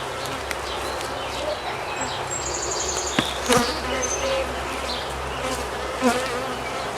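Many honey bees buzzing around their hive in a steady hum, with a few sharp knocks about three seconds in and again near the end.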